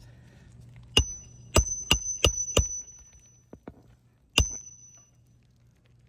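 Hammer striking a metal roofing snake to drive shingle nails, each blow ringing with a bright metallic tone. Five sharp strikes come in quick succession about a second in, then two light taps and one more hard strike past the middle.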